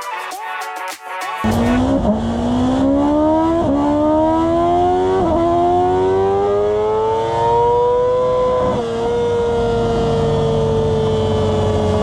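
After a second and a half of music, a sport motorcycle's engine accelerates hard at full throttle. Its pitch climbs steadily and drops back at each of about four upshifts, then holds almost level at high speed after the last shift.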